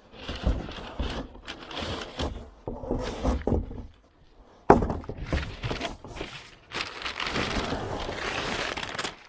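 Packaging of a new band saw blade being handled and opened: irregular rustling and crinkling with clattering, a sharp knock about five seconds in, and a denser rustle near the end.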